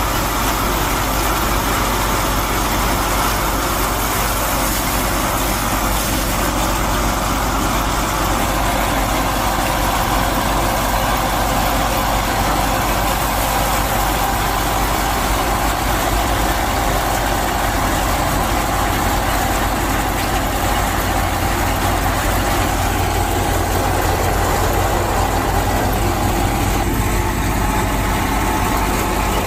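A motor running steadily with an engine-like hum. Its pitch shifts about eight seconds in and again near the end.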